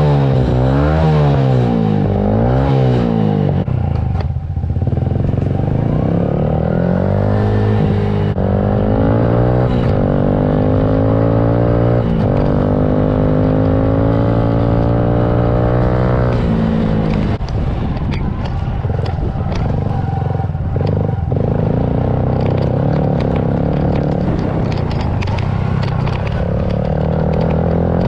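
Small single-cylinder four-stroke pit bike engine with a Yoshimura exhaust, heard up close. It revs twice near the start, then pulls through the gears, its pitch climbing in steps, and runs on under chassis clatter and rattle over the rough track.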